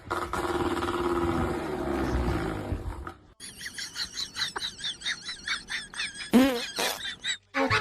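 Animal vocalizing: one long drawn-out call that slowly falls in pitch, then a rapid run of high chirps about five a second, then a short call that rises and falls near the end.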